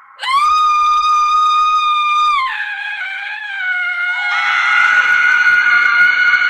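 A woman's high-pitched scream bursts in and is held steady for about two seconds, then drops lower and wavers. From about four seconds in a second, fuller scream overlaps it and carries on.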